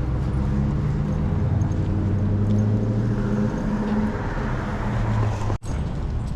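Motor vehicle engine running close by, a steady low hum with a wash of road noise rising about three seconds in. The sound drops out abruptly for a moment near the end.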